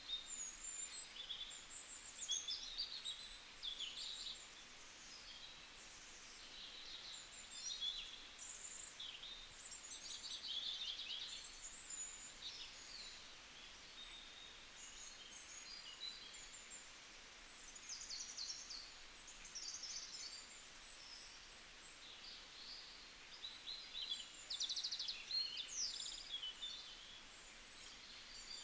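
Several small songbirds chirping and trilling, a busy mix of short high calls that comes and goes, over a faint steady hiss.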